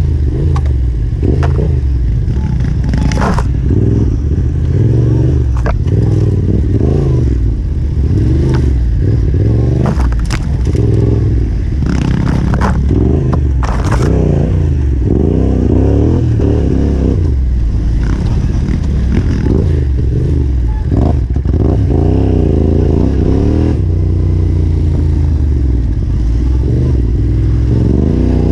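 Yamaha Ténéré 700's parallel-twin engine revving up and down constantly as it is ridden over rough single track, with sharp knocks and clatter from the bike hitting stones and roots.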